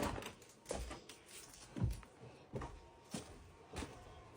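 Footsteps on a floor, a soft thump about every second, with some shuffling.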